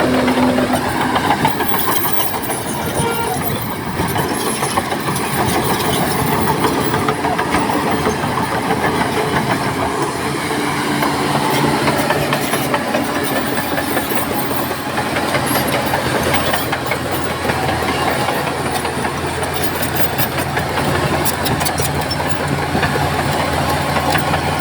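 Heavy diesel earthmoving machinery running steadily, with metallic clanking and rattling.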